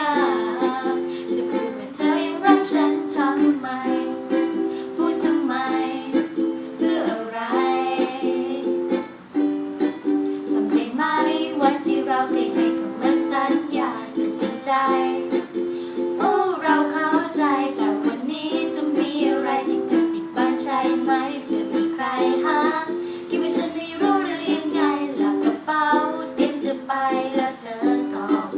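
A ukulele strummed in repeating chords with a voice singing a Thai pop song over it, in a small room.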